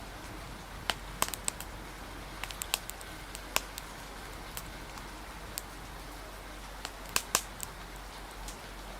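Wood fire crackling, with sharp irregular pops now and then, over a steady hiss of rain.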